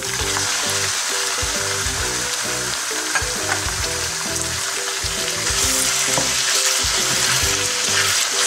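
Raw boneless chicken cubes sizzling in hot oil with fried onion, garlic and ginger, stirred with a wooden spatula that scrapes the pan now and then. The sizzle grows louder about five and a half seconds in.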